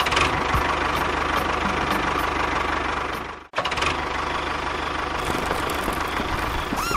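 A small motor running steadily with a fast rattling drone, cutting out abruptly for an instant about three and a half seconds in, then running on.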